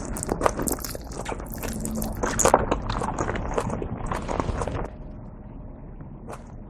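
Close-miked eating of a kimchi dumpling: a bite, then chewing with many small mouth clicks, dying down about five seconds in.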